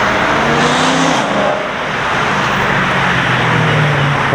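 A car engine running at a steady idle, a low drone under loud noise from the surroundings; the drone grows a little stronger and edges up in pitch near the end.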